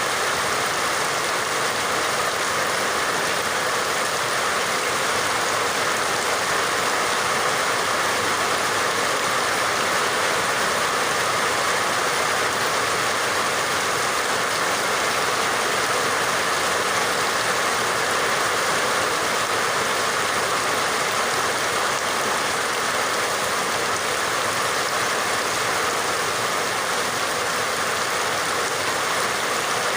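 Steady heavy rain falling: a continuous, even hiss with no breaks or changes.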